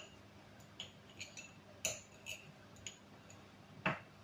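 Light clicks and taps of a kitchen utensil against a pan while butter is put in, scattered through, with one louder knock near the end.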